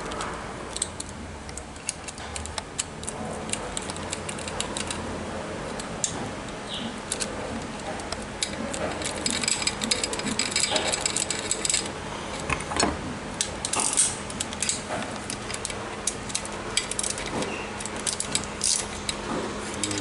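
Irregular metallic clicks, clinks and light knocks of hand tools and steering-column parts being handled and fitted together, busiest about halfway through.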